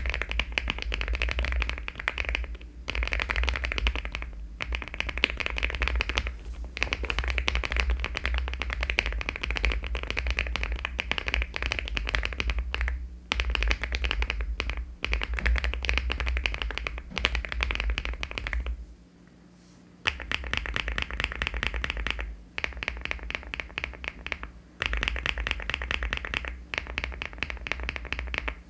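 Fast typing on a LEOBOG Hi75 aluminium mechanical keyboard fitted with HMX switches and Cherry-profile keycaps: a dense run of keystroke clacks, broken by short pauses and a longer stop about 19 seconds in.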